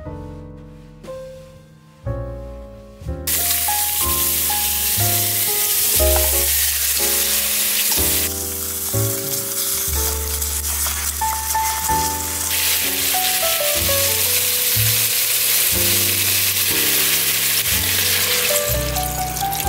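Chicken and pork bones sizzling as they stir-fry in oil in the inner pot of an electric pressure cooker, the sizzling starting suddenly about three seconds in, over background music.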